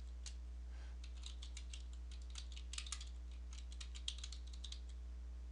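Typing on a computer keyboard: irregular runs of quick key clicks, densest in the middle, over a steady low hum.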